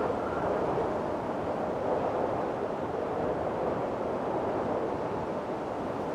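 Strong wind blowing steadily in a windstorm, a dense rushing noise that swells and eases slightly without letting up.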